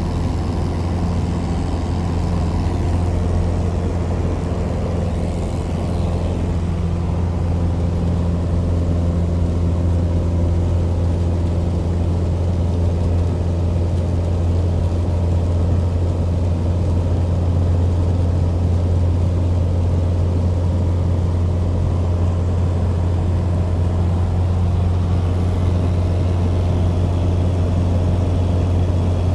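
Legend Cub light aircraft's piston engine and propeller running with a steady low drone, holding an even pitch and level throughout.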